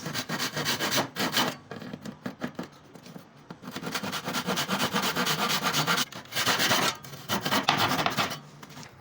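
Wood being abraded by hand with rapid back-and-forth strokes, in several spells with short pauses between them.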